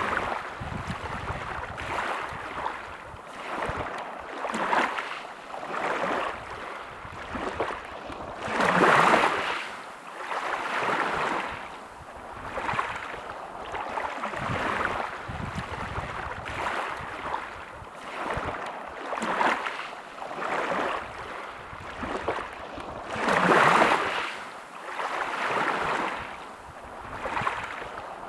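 Sea waves washing onto a shore, the surf swelling and falling back every couple of seconds, with two bigger breaking waves about a third of the way in and again near the end.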